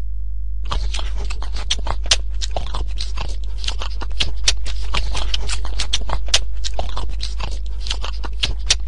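Border collie puppy eating from a plastic bowl: rapid, irregular crunching and clicking that starts just under a second in, over a steady low hum.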